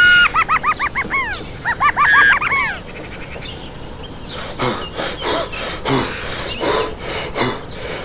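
High-pitched cartoon giggle sound effect: a short held squeal, then two quick runs of rapid, bouncing chirpy laughs in the first three seconds. Quieter short squeaky vocal sounds follow from about halfway on.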